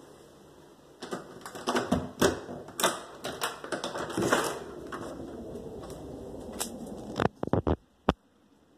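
A quick, irregular run of clicks and knocks for a few seconds, then a steady hiss, a few more sharp clicks, and the sound drops out.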